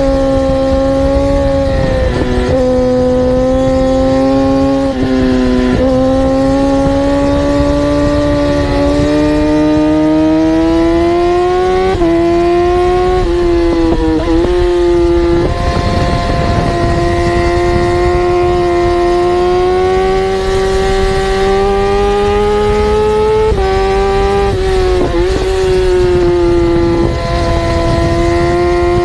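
Superbike engines at high revs under hard acceleration. The pitch climbs slowly through each gear and drops sharply at each upshift, several times, with a second engine running at a different pitch.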